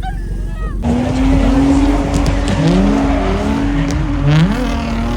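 A car engine running loud with a steady note and a few short upward revs, over background voices.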